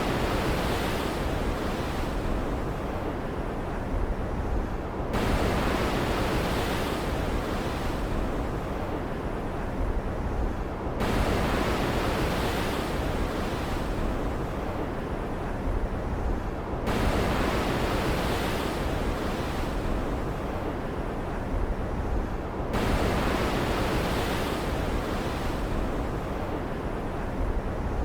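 Stormy ocean surf: a continuous wash of waves, with a fresh wave breaking about every five to six seconds and each surge fading back before the next.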